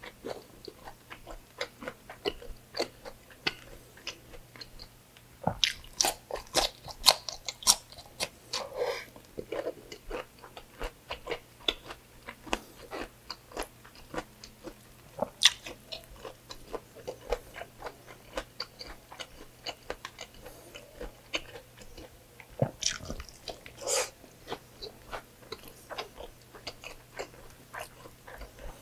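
Close-up chewing of a mouthful of pork belly adobo and rice, with many sharp, wet mouth clicks. The clicks come thickest and loudest about six to nine seconds in and again just before the end.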